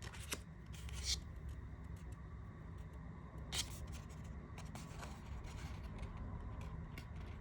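Tarot cards being handled and turned over one by one: soft slides and light flicks of card stock, the clearest about a second in and again about three and a half seconds in.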